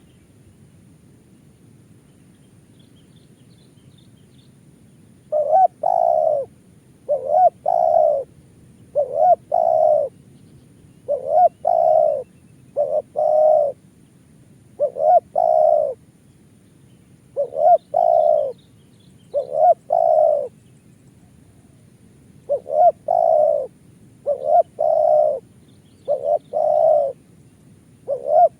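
Spotted dove (tekukur) cooing: a two- or three-note coo phrase repeated about every two seconds, starting about five seconds in.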